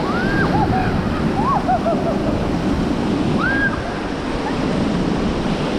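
River water rushing, a steady loud rush of noise.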